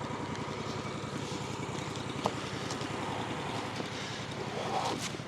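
Portable sawmill's gas engine running steadily at idle between cuts, with a single faint click about two seconds in.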